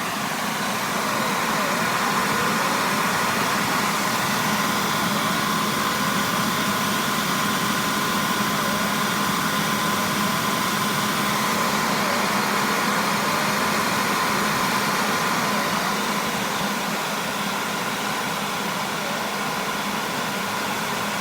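Jet Central model turboprop turbine on its cooling cycle after shutdown: the starter motor keeps the turbine spinning to blow air through until the temperature drops, a steady whir with a held whine, easing slightly near the end.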